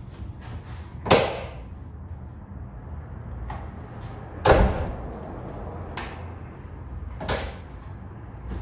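Four sharp knocks spread over several seconds, the loudest about halfway through, over a steady low rumble.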